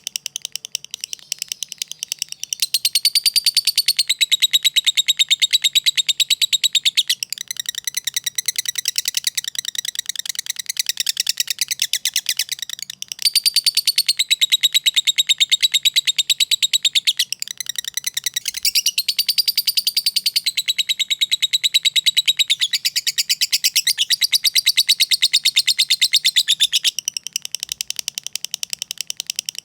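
Lovebird giving a long, fast ngekek: an unbroken run of rapid high chattering chirps. It swells louder for several seconds at a time, about three seconds in, again around thirteen seconds and from about nineteen seconds on.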